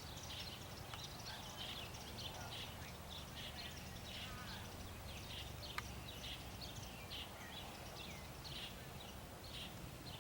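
Birds chirping, with many short calls repeating throughout over a faint low steady hum.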